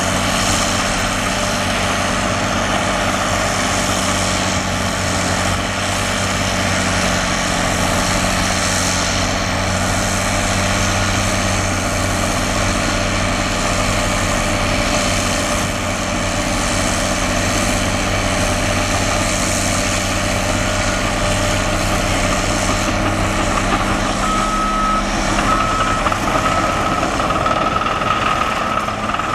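Caterpillar D6R XW bulldozer running steadily as it works, its diesel engine droning with track and machine noise. About 24 seconds in, a steady high-pitched tone joins and holds on.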